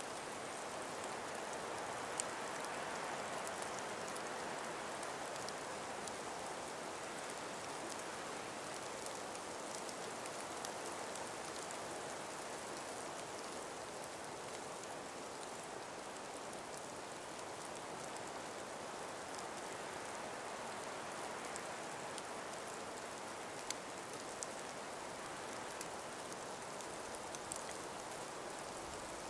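Calm breeze moving through an ice- and snow-laden forest: a steady soft hiss that swells slightly near the start, with a few faint ticks scattered through it.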